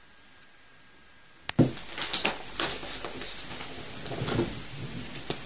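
A sharp knock about a second and a half in, followed by a run of irregular knocks and rustles over a steady hiss, with another click near the end.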